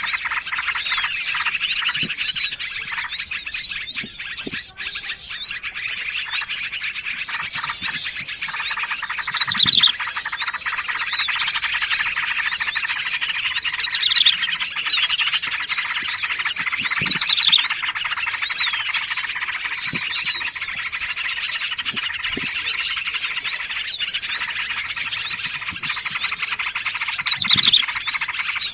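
Dense, overlapping chatter of small songbirds from a bird-lure mix that names trucukan (yellow-vented bulbul), prenjak, sirtu and sogon. Quick calls and falling whistled notes repeat throughout. Twice, a fast high trill runs for a few seconds.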